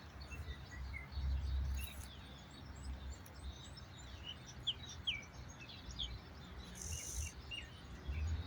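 Small birds chirping: many short, high chirps scattered throughout, over a low background rumble, with a brief hiss about seven seconds in.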